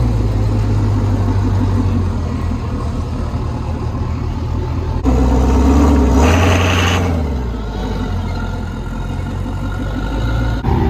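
Pickup truck engine running, revving up sharply about five seconds in with a loud rush, then its pitch falling back toward a steady drone.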